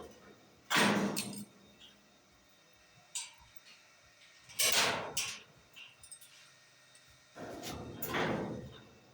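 A gate being moved, making three noisy scraping or rolling bursts of about a second each, with a short knock between the first two.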